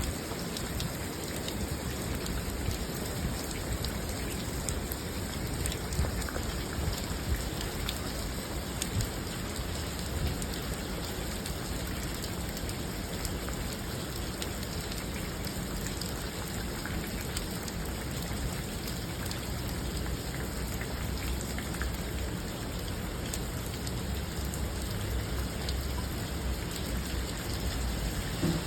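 Steady rainfall: an even hiss with scattered ticks of drops striking a surface.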